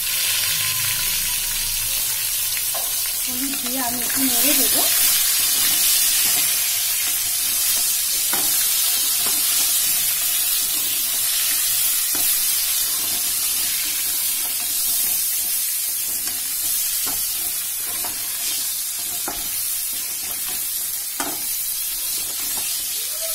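Chicken pieces frying in hot oil in a kadai, a steady sizzle, with a metal spatula scraping and clicking against the pan now and then as they are stirred.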